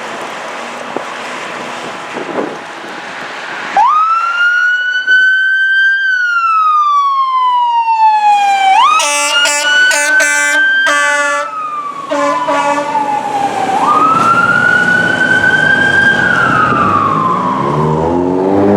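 Fire engine responding: after a few seconds of wind noise, its siren starts about four seconds in and wails up and down in slow sweeps. Around the middle, a couple of seconds of air-horn blasts break in, with a few short toots after. Near the end the truck's diesel engine is heard accelerating under the siren.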